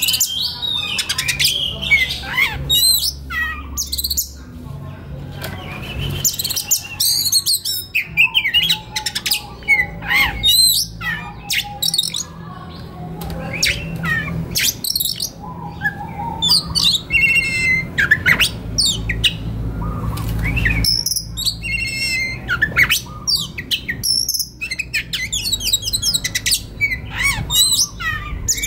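Oriental magpie-robin singing continuously: a fast, varied run of clear whistles, trills and pitch glides mixed with harsh, scratchy notes, over a steady low hum.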